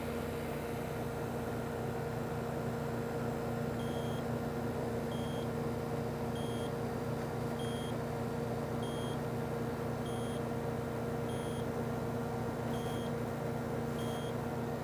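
Air-conditioning condensing unit running: a steady electrical hum from the compressor under the even rush of its fan. From about four seconds in, a short high beep sounds about every second and a quarter, nine times.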